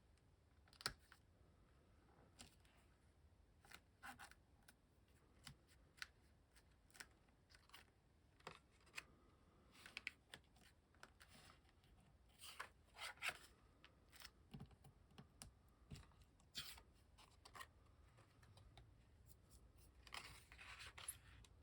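Faint, scattered rustles, light taps and scrapes of paper and cardstock being handled, arranged and worked by hand.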